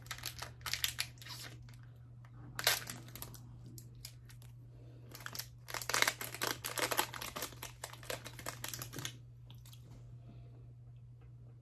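Packaging of a box of macarons being worked open by hand: bursts of rustling with sharp clicks, the longest from about five to nine seconds in.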